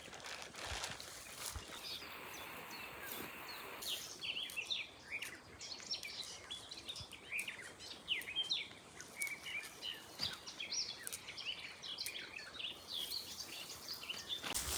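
Songbirds singing, many short overlapping chirps and trills that start about four seconds in, over a soft hiss of outdoor background noise.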